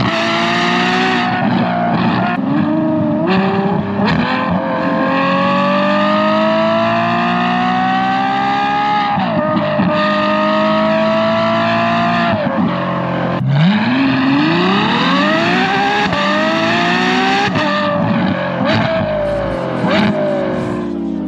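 Ferrari F12 Berlinetta's V12 through an aftermarket valved exhaust with an X-pipe, accelerating in long pulls through the gears. The pitch climbs steadily on each pull and drops sharply at each of several upshifts.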